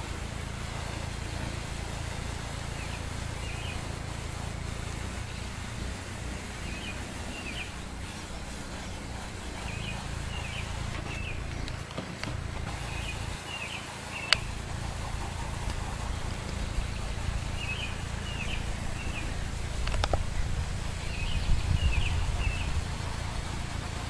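Steady outdoor background noise with a low rumble, and a bird chirping in short little groups every few seconds. A single sharp click sounds about halfway through.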